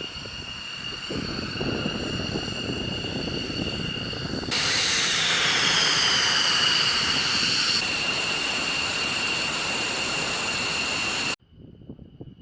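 Jet aircraft engine running: a steady rushing noise with a high whine. About four and a half seconds in it gets louder and a whine glides down in pitch, then the sound cuts off abruptly near the end.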